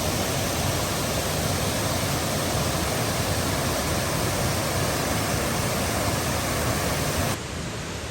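Steady rush of a large waterfall's falling water. Near the end it drops sharply to a quieter, duller rush.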